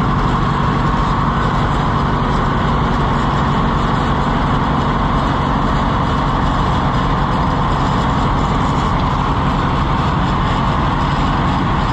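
Several vintage farm tractor engines idling together, a steady, continuous running.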